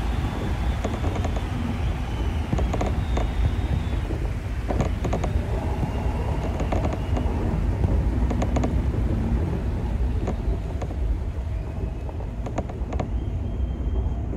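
Odakyu Line electric train running at speed, heard from inside the front of the train: a steady low rumble of wheels on rails, with clicks in pairs every second or so as the wheels pass over rail joints.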